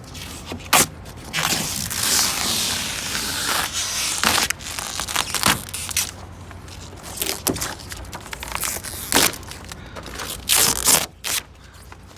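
Plasti Dip rubber coating being peeled off car paint: a sticky tearing and crackling in irregular pulls of different lengths, a longer pull near the start.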